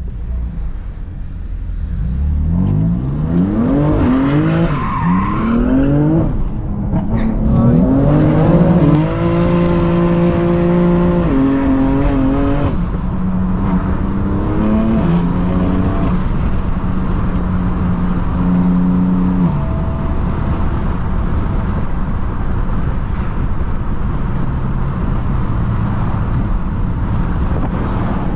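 BMW M3 F80's twin-turbo inline-six revving up and down hard several times, then held at steady high revs in stretches of a few seconds. Just before the last third the engine note drops away, leaving a steady rush of road and tyre noise.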